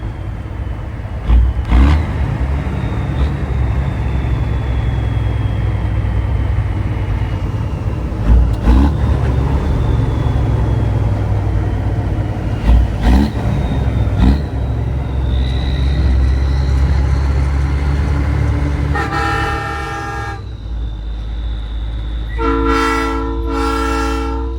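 Heavy truck running with a steady low rumble and a few thumps, then a Nathan Airchime train-style air horn sounding a chord: one blast of about a second and a half, and after a short gap two more blasts in quick succession near the end.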